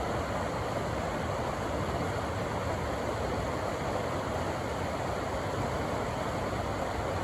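A river rushing through a rocky canyon: a steady, unbroken roar of churning water.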